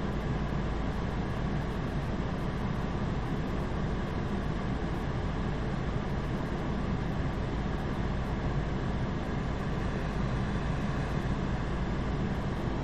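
A car's engine idling, heard inside the cabin through a dashcam as a steady low rumble.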